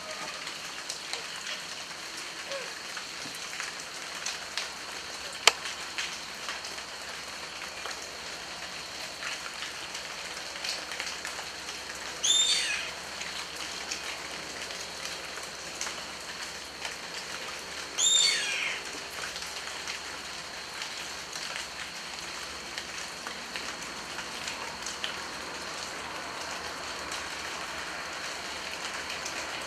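Steady rain with many small drips and patters. Twice a bird gives a loud call that falls in pitch, about twelve and eighteen seconds in.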